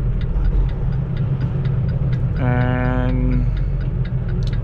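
Semi-truck's diesel engine running, heard inside the cab, with the turn signal clicking steadily at about four ticks a second for a left turn.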